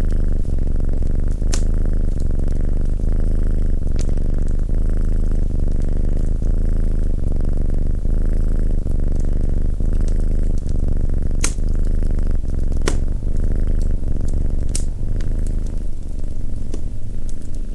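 Domestic cat purring steadily, close up and loud, with a handful of sharp pops from a crackling wood fire.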